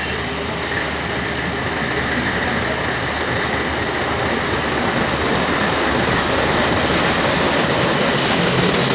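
Metal-turning lathe running steadily.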